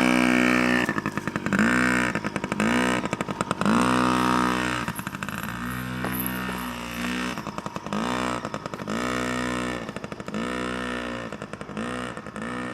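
Small dirt bike's engine revving up and easing off over and over, its pitch climbing with each opening of the throttle. It runs steadier and lower for a couple of seconds in the middle.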